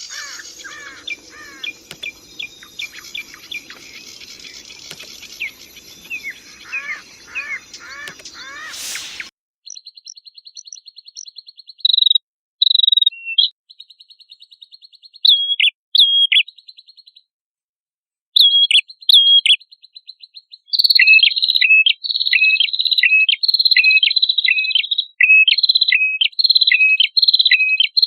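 Prenjak kepala merah songbird singing. Its song starts as repeated quick falling chirps over a faint hum, then about nine seconds in switches to a cleaner recording of fast high buzzing trills broken by sharp whistled down-slurs. These come thick and loud near the end.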